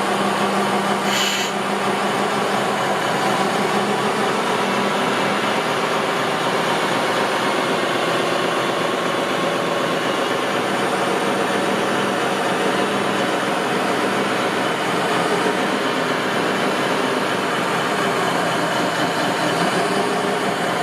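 Steady mechanical running noise of remote-control construction machines and trucks at work, with a short tick about a second in.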